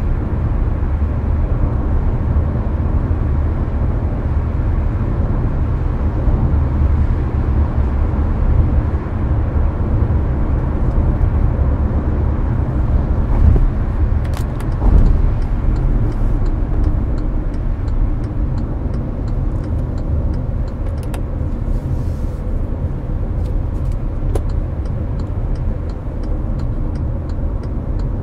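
Interior of a Hyundai Avante at highway speed: a steady low road and tyre rumble mixed with air-conditioner fan noise, with a couple of slightly louder thumps about halfway through.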